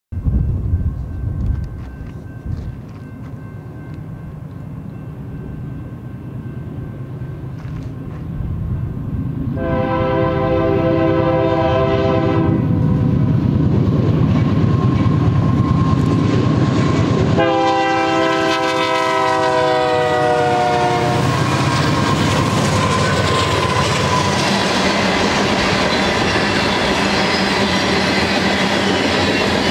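Union Pacific freight train with several diesel locomotives in the lead: the engines rumble as they approach, the locomotive horn sounds two long chords about ten and eighteen seconds in, the second dropping in pitch as the lead unit passes, and then a long line of covered hopper cars rolls by with steady wheel and rail clatter.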